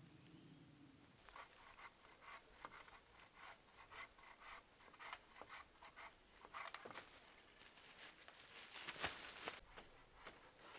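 Faint, irregular scraping and rubbing on wood, in short strokes a second or so apart, with a louder pair of strokes near the end.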